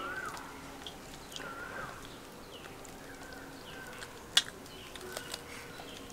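Bird calls: short whistled notes that rise and fall, repeating every second or so, with a few sharp clicks, the loudest about four seconds in.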